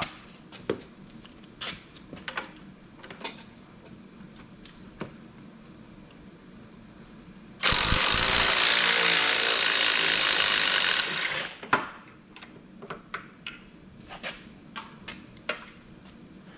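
Scattered clicks and clinks of tools on the metal parts of a winch being taken apart. About seven and a half seconds in, a power tool runs loudly for about three and a half seconds, then stops and the clinking resumes.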